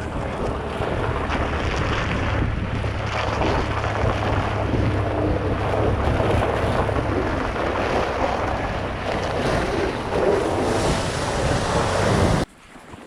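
Pickup truck engine running under load in four-wheel drive while towing a dog pen, with heavy wind noise on the microphone. The sound cuts off suddenly near the end.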